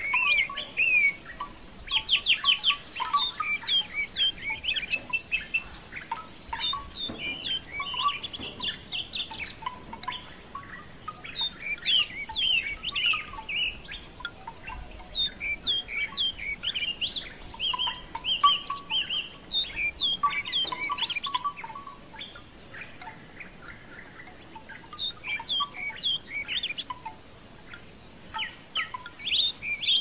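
Songbirds chirping and twittering without a break: many quick high chirps, a lot of them sweeping downward, with some lower notes mixed in.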